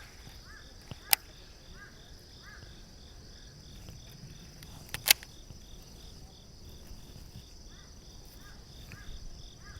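Insects chirping outdoors: a steady high buzz with a regular pulsing trill, along with short repeated chirps. Two sharp clicks about four seconds apart stand out, the first about a second in.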